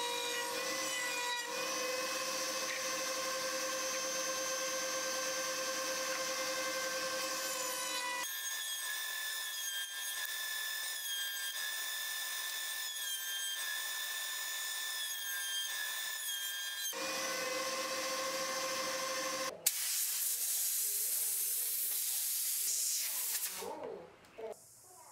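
An electric power tool runs at a steady speed on wood, with a steady motor whine whose pitch changes abruptly a couple of times. About twenty seconds in, it gives way to a rushing noise that stops shortly before the end.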